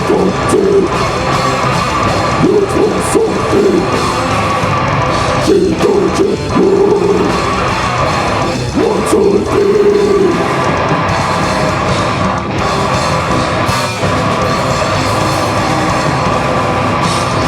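Live heavy rock band playing loud, with distorted guitars and a drum kit, and shouted vocals coming in at intervals.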